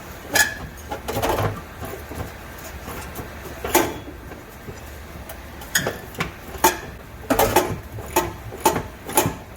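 Irregular sharp metallic clinks and knocks of hand tools against the car's rear shock and suspension hardware, a few of them coming close together near the end.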